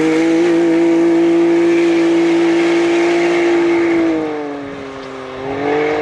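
Off-road rally car's engine held at high, steady revs for about four seconds, then the revs fall away and climb again near the end.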